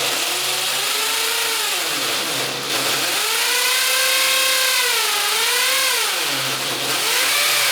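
Electric power drill boring into ceramic wall tile with a tile drill bit, its motor whine rising and falling twice as the speed and load change.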